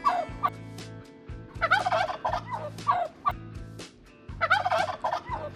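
Turkey gobbling: a tom's rapid, warbling gobbles, repeated several times.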